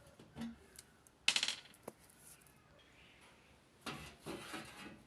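Clinks and rattles of small metal objects being handled, loudest about a second in, with another cluster near the end.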